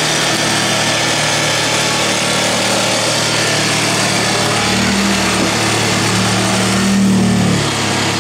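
A small motor running steadily, its low hum shifting in pitch about five seconds in.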